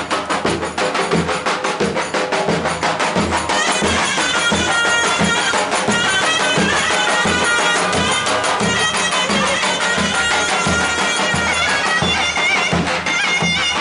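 Traditional Turkish wedding folk music played live: a loud, shrill reed wind instrument carries a melody over a steady bass drum beat, about two strokes a second. The held, reedy melody comes to the fore about three and a half seconds in.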